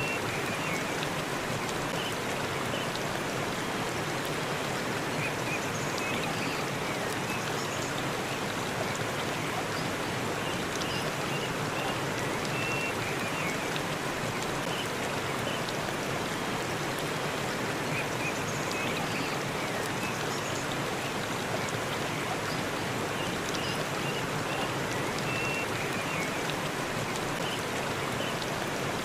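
Forest waterfall, with water rushing in a steady, even wash of noise. Short faint high chirps sound here and there over it.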